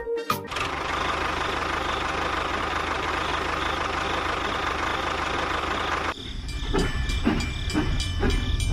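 Tractor engine running: a steady noise that changes about six seconds in to a rhythmic chugging, with low thumps about twice a second.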